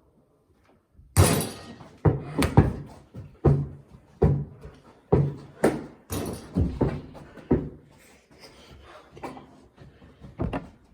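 Basketball bouncing on a hard floor: a run of sharp thuds at uneven gaps of about half a second to a second, each with a short low ring.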